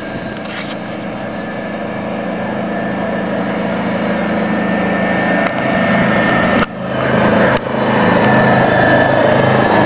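Aixam 400 microcar's small two-cylinder diesel engine running at a steady pace as the car approaches, growing louder throughout. The sound drops out briefly twice about two-thirds of the way through.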